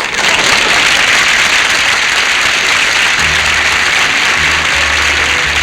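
Studio audience applauding loudly. About three seconds in, the show's orchestra starts playing under the applause with low, held bass notes.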